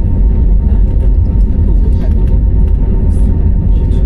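Airliner cabin noise: a steady, loud low rumble from the engines and airflow, with a faint steady high tone running through it.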